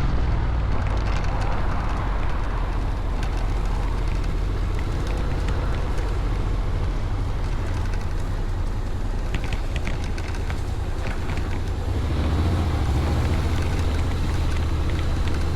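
Honda Forza 750 scooter being ridden on the road: a steady low rumble of engine and wind rush, swelling a little near the end.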